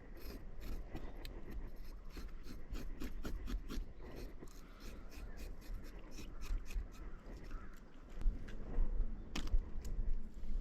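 A run of small clicks, rubs and scrapes from hands handling gear, thickest over the first four seconds, with one sharper click about nine and a half seconds in, over a low wind or water rumble.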